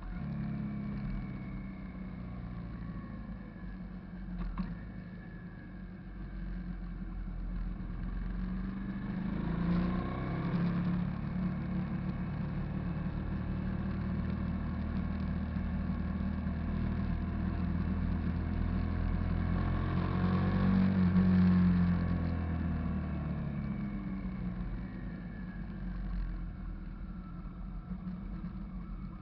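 Hyosung GV650 cruiser's V-twin engine running while under way, steady, with the sound swelling and falling back twice, about a third and again about two thirds of the way through.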